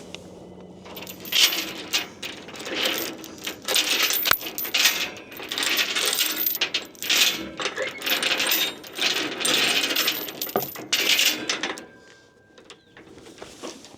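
Loose metal hardware clinking and rattling in repeated bursts from about one second in, dying away near the end, as tie-downs are handled and checked for slack.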